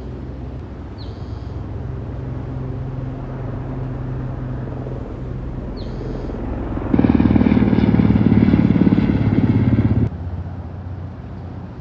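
A steady low engine hum. About seven seconds in, a much louder engine-like noise comes in suddenly, runs for about three seconds and cuts off abruptly. A few short high chirps sound over the hum.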